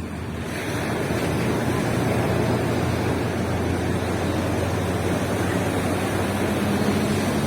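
Surf on the beach: a wave breaks and washes in, swelling about half a second in and then holding as a steady rush. Under it runs a low, steady engine hum that grows near the end.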